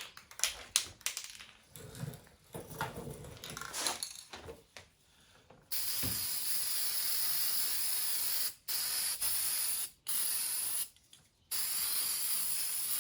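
Aerosol spray paint can spraying the transmission's tail shaft housing in four long hissing bursts with short breaks between them, after several seconds of clicks and rattles.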